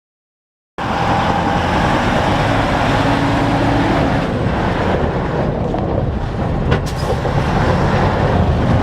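Steady engine and road noise of a car, picked up by a dash cam's microphone. It starts abruptly after a moment of dead silence, and there is a brief click about seven seconds in.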